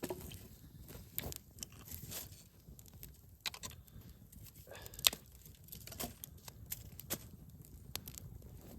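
Wood campfire crackling, with scattered sharp pops at irregular intervals, the loudest about five seconds in.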